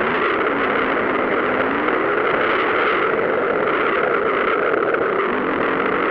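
Motocross motorcycle engines running and revving on the track: a steady, dense noise with a faint pitch that rises and falls.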